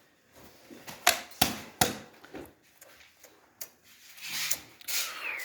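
A few sharp clicks and knocks, three loud ones in quick succession about a second in and fainter ones after, with a short bird chirp near the end.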